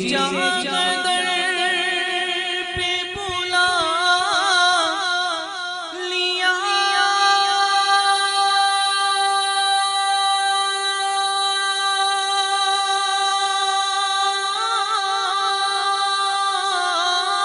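A single high voice singing a naat without words: wavering melismatic ornaments, then one long held note for about eight seconds, then ornaments again.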